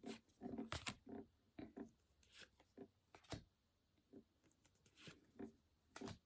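Faint handling of Pokémon trading cards: scattered soft clicks and rustles as cards are flipped and slid through the hands, busier in the first second or so.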